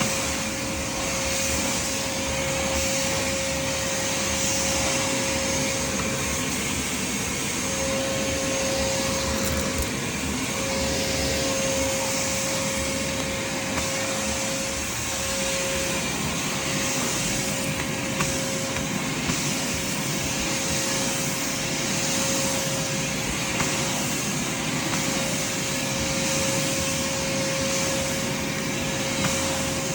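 Craftsman shop vac running steadily with a constant motor whine while vacuuming a carpet, its airflow hiss rising and falling a little as the nozzle moves, with a few small clicks of debris.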